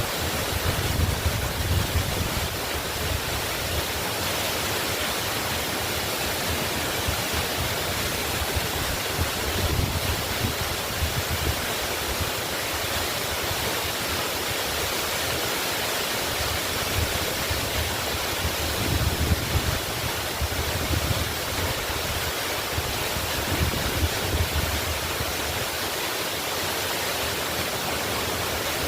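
Waterfall rushing steadily, with a low rumble that swells up briefly every several seconds.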